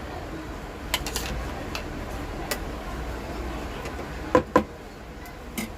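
A few light clinks and taps of a spoon against a bowl as yogurt is spooned into the chicken marinade, the two loudest close together about four and a half seconds in.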